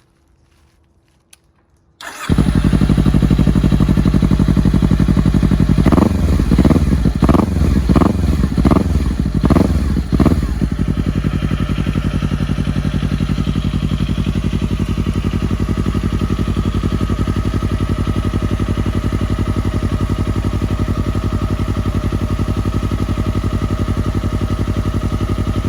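A 250 cc sport motorcycle with an aftermarket muffler starts about two seconds in. It is blipped with about seven quick revs, then settles into a steady idle.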